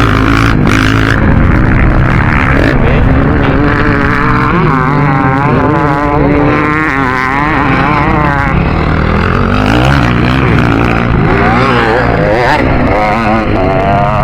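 Dirt bike engine revving hard, its pitch climbing and dropping again and again as the throttle is worked and gears change.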